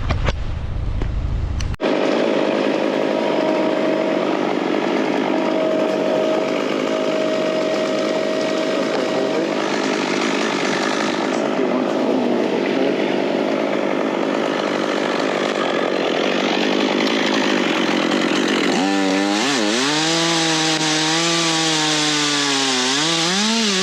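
Chainsaw running and cutting wood, loud and steady; in the last few seconds its engine pitch dips and rises as the cut loads and frees the saw. Before that, about two seconds in, a sudden change from wind rumble on the microphone.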